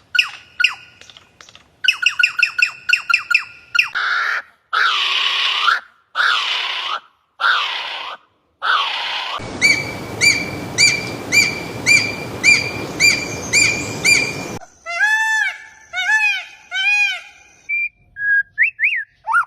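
Bird calls from several recordings cut together, changing abruptly every few seconds: quick chirps, then a run of loud arching calls about a second apart, then rapid repeated arching notes about twice a second over a steady hiss, then grouped whistled notes and quick rising notes near the end.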